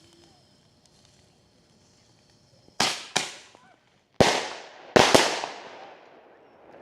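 Five firecracker bangs starting about three seconds in: two close together, then one, then two more close together. Each trails off in a long echo.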